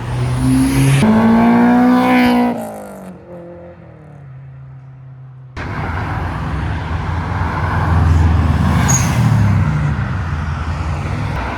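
Bug-eye Subaru Impreza engine revving hard as it pulls away, its pitch climbing for about two seconds before fading. After a sudden cut about halfway through, another car's engine and tyre noise rise and pass.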